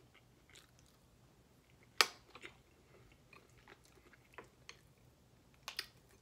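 A person chewing food close to the microphone, with soft wet mouth clicks scattered through. A single sharp click about two seconds in is the loudest sound, and a quick pair of clicks comes near the end.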